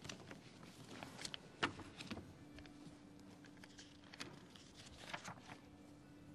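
Quiet room tone in a large hall: a faint hum that comes and goes, with scattered light clicks and knocks. The sharpest knock comes about one and a half seconds in.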